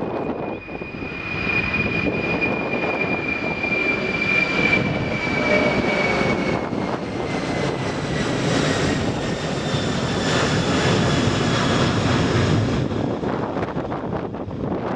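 Jet airliner engines passing close by: a broad rumble under a high whine that slowly falls in pitch. The noise swells through the middle, then fades toward the end.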